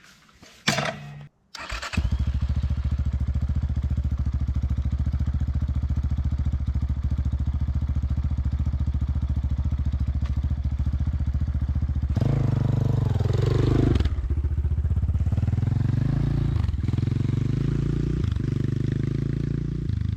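Enduro motorcycle engine started: after a couple of short noises it catches about two seconds in and idles steadily. About twelve seconds in it is revved, rising and falling back, with a few more throttle blips near the end.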